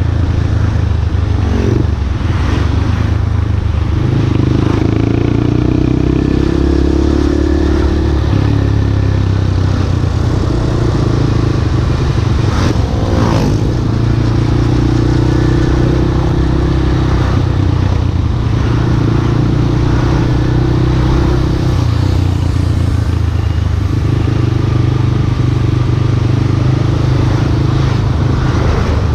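Yamaha Scorpio Z's single-cylinder four-stroke engine running under way, its pitch stepping up and down every few seconds as the rider accelerates and shifts through the gears. A brief rushing sweep about 13 seconds in.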